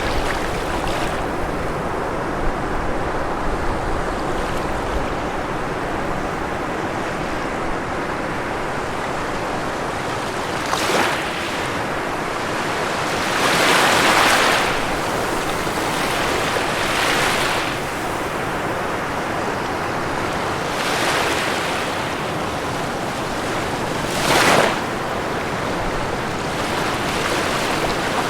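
Ocean surf washing steadily on a shore, with several waves surging louder in turn: the broadest about halfway through, and a shorter, sharper one near the end.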